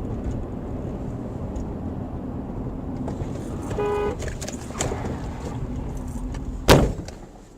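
Car driving with steady road and engine noise, a short horn honk about four seconds in, then one loud bang near the end, typical of a vehicle collision.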